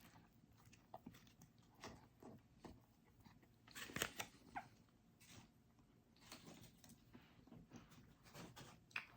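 Faint, scattered chewing and crunching of a man eating, with small mouth clicks, busiest about four seconds in.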